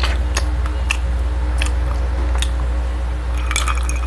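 Close-miked wet chewing of a mouthful of burger: a scatter of sharp, wet mouth clicks over a steady low hum. Near the end, a glass cup clinks as it is picked up.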